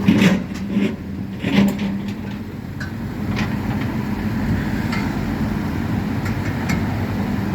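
Heavy diesel engine running steadily with a low hum, with a couple of sharp knocks in the first two seconds.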